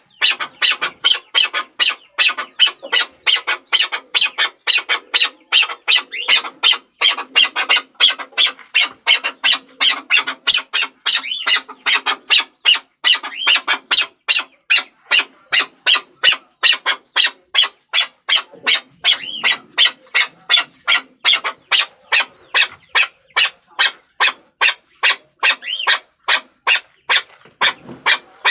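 Chukar partridge calling: a long, unbroken series of short, sharp notes repeated at about three a second.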